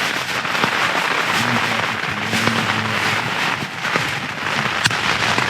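Rain pattering on the tent fly, mixed with crackly rustling and clicks of nylon bags and small camping gear being packed away inside the tent.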